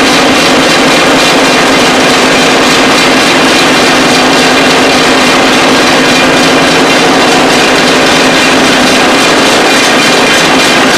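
Vibrating table running with a loud, steady buzzing hum, shaking freshly placed concrete in a tray to settle it and drive out air.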